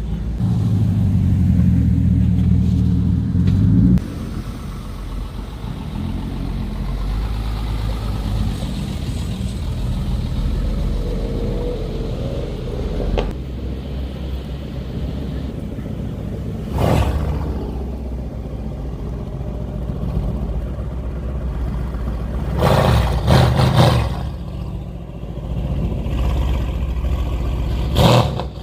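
Car engines running at a car meet: a steady low rumble, louder over the first four seconds, with a few brief loud bursts later on.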